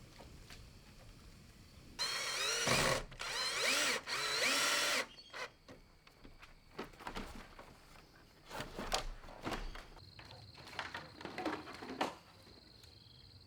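Handheld power tool, a drill-type motor, run in three loud bursts of about a second each, its pitch dipping and rising as it bites under load. Shorter, uneven bursts follow through most of the rest.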